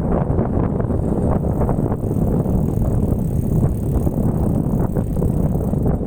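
Mountain bike rolling over rough ground: a steady low tyre rumble with many small rattles and clicks, picked up through a phone mounted on the handlebar, with wind on the microphone.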